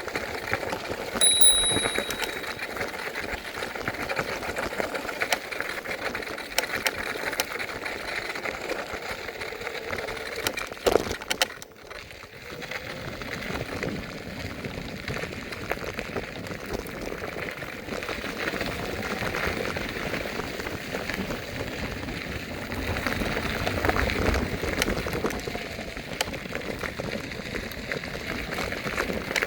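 Electric scooter riding noise: wheels and deck rattling over pavement with a steady rush, and a short high ring about a second in. A brief louder knock or jolt comes near the middle.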